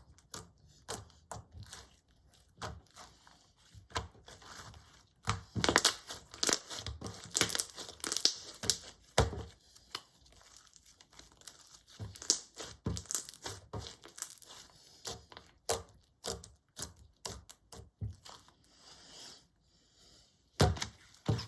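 Clear slime being squeezed, stretched and folded by hand, making irregular sticky pops and clicks, busiest a quarter of the way in.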